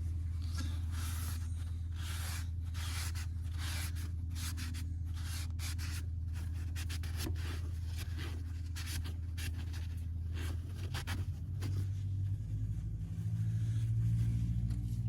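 Rag rubbing over an engine block in repeated short wiping strokes, taking off excess dye penetrant, over a steady low machine hum. The hum changes pitch and grows louder near the end.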